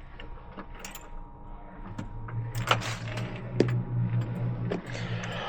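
Scattered light clicks and metallic clinks of small hard objects being handled, with a low steady hum that comes in about two seconds in.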